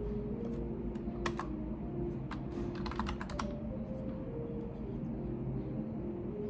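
Typing on a computer keyboard: scattered key clicks with a quick run of keystrokes about halfway through, over a steady low background sound.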